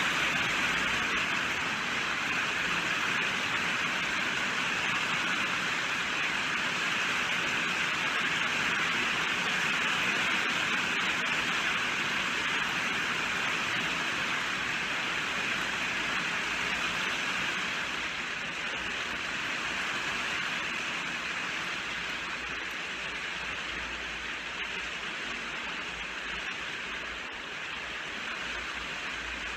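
Steady rain falling, a continuous even hiss of many drops, easing slightly in loudness in the second half.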